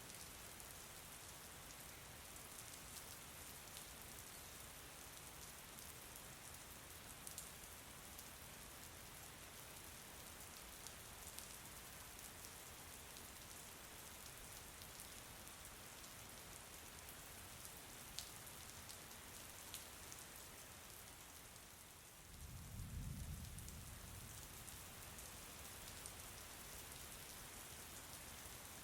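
Faint, steady rain falling, with scattered individual drops ticking, and a brief low rumble about two-thirds of the way through.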